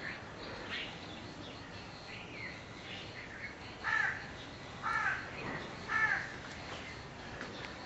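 Bird calls: three loud calls about a second apart near the middle, with fainter calls before them.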